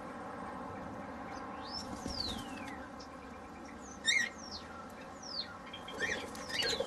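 Aviary birds calling: several short calls and falling whistles, with a loud rapid call about four seconds in.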